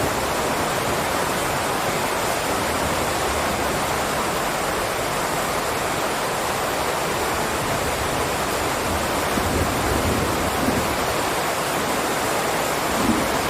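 Steady heavy rainfall, a continuous even hiss, with a couple of brief low rumbles in the second half.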